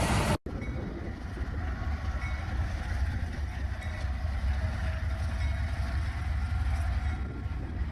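Steady low rumble of a moving vehicle, starting after a sudden cut about half a second in.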